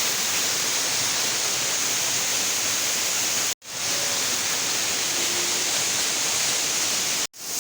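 Waterfall rushing, a steady even noise that cuts out abruptly twice for a moment, about three and a half seconds in and again near the end.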